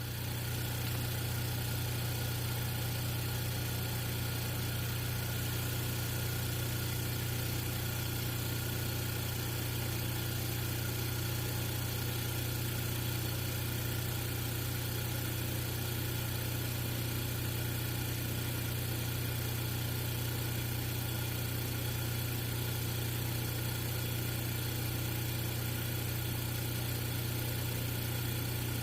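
A motor running at a steady low hum, unchanging throughout, a little louder just after the start.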